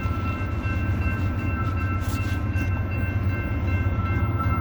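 Loaded CSX coal train's GE diesel locomotives working hard at low speed up a grade: a steady heavy engine rumble, with a thin steady high whine on top.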